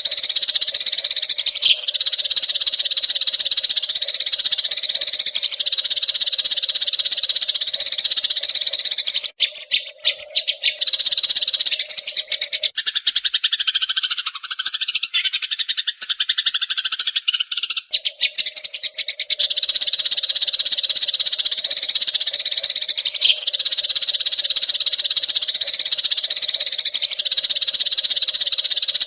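Wild Eurasian tree sparrows chirping and chattering without pause in a dense, high-pitched chorus. About nine seconds in, the chatter breaks up and thins for around ten seconds, then fills back out.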